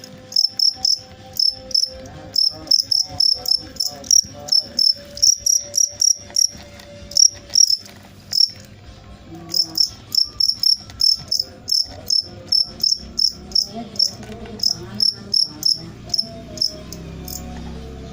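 A cricket chirping close up: short, sharp, high chirps in quick, uneven runs of about two to three a second, with a pause of about a second near the middle.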